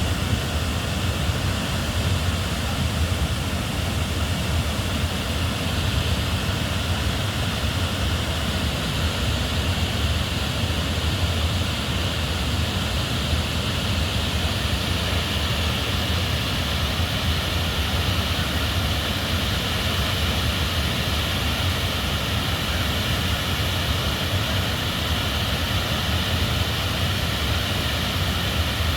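Swollen floodwater river rushing past in a steady, unbroken roar of water with a deep rumble underneath.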